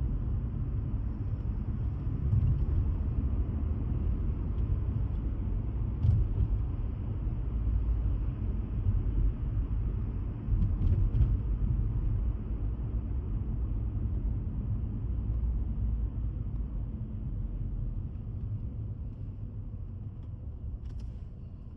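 Steady low road rumble of a car cruising on the highway, heard from inside the cabin, swelling and easing a little and fading slightly near the end.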